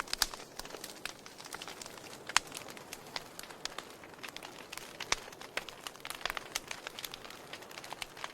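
Wood fire crackling: irregular sharp pops and snaps over a soft steady hiss, with a few louder pops at about a quarter second, two and a half seconds and five seconds in.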